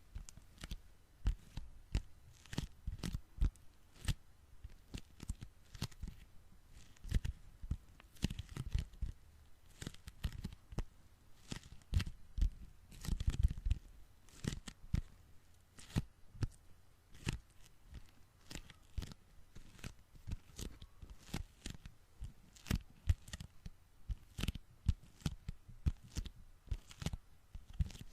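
Sticky hands being pressed together and peeled apart close to the microphone, giving irregular sticky crackles and tearing pops, a few each second, with a denser run a little before the middle.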